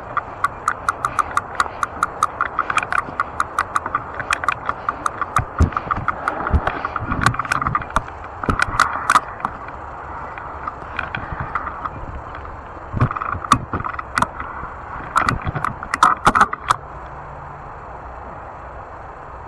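Fat-tire e-bike being ridden, rattling and clicking fast, about four clicks a second at first, with heavier knocks in bursts. Near the end the clicking stops and a steadier running noise is left.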